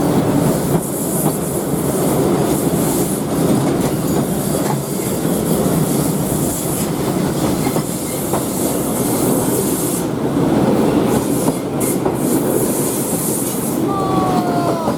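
Passenger train running along the track, wheels rolling and clattering over the rail joints in a steady din, with a brief wheel squeal near the end.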